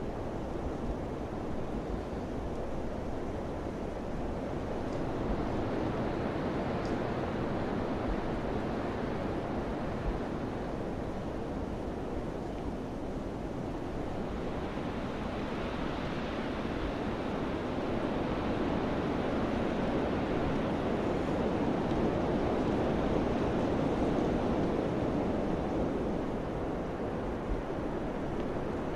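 Summer wind rushing steadily, rising into a longer, louder gust about halfway through before easing off.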